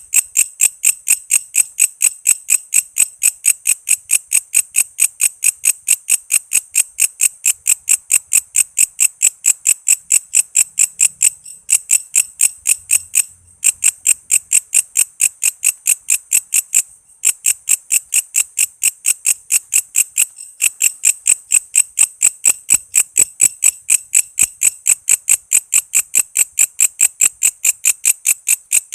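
Walang kece katydid calling in a fast, even train of sharp, high chirps, about four a second, with two brief breaks in the middle.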